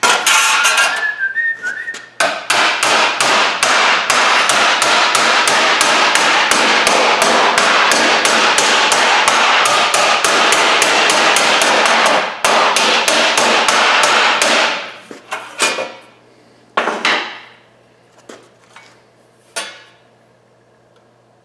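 Hammer pounding 18-gauge sheet steel in a fast, even run of blows, about four a second for some thirteen seconds, with the metal ringing; a few single blows follow. The steel is being rounded out to the curve of a truck cab's windshield brow repair panel.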